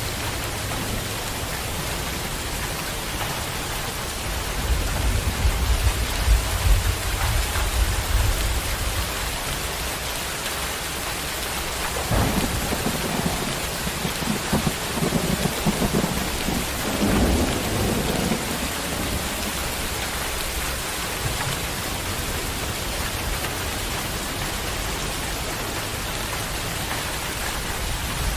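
Heavy rain falling in a steady hiss, with a deep roll of thunder from about four to nine seconds in and a second, rougher peal from about twelve to eighteen seconds in.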